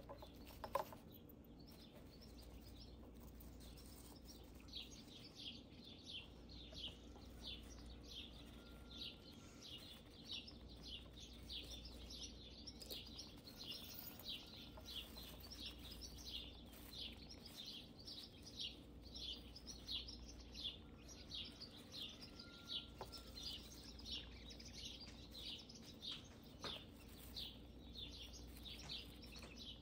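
A small bird chirping over and over, faint and steady, starting a few seconds in. Each chirp is a quick falling note, about two a second. One sharp click comes just under a second in.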